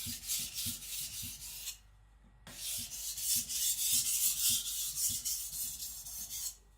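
Niolox-steel nakiri blade stroked back and forth on a wet sharpening stone, a rasping scrape at about three strokes a second. The strokes stop for a moment about two seconds in, then resume. This is the edge being set at 10–12 degrees with a small micro bevel.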